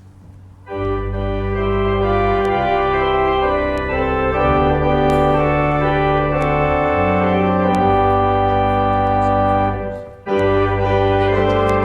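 Organ playing loud sustained chords, starting about a second in, with a brief break near the end before the next chord.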